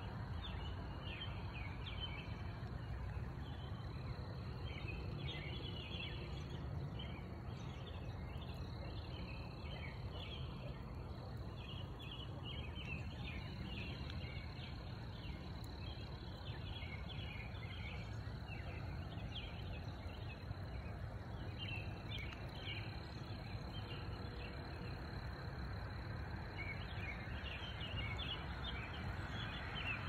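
Outdoor ambience: several birds chirping and singing in short phrases over a steady low rumble.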